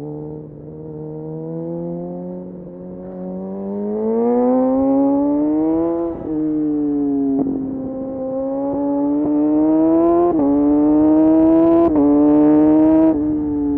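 Kawasaki Ninja motorcycle engine through an Arrow exhaust with the dB killer removed, accelerating with its pitch climbing steadily. The pitch falls back sharply at several gear changes, about six seconds in, around ten seconds and again near the end.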